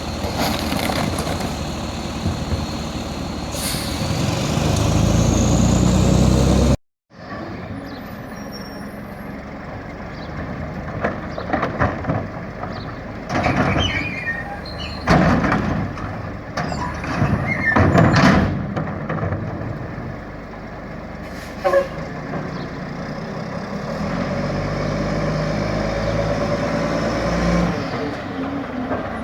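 Diesel garbage truck engine running and revving up, cutting off abruptly. Then the truck runs with a series of loud clanks and bangs of trash and bins being handled, and its engine revs up again near the end.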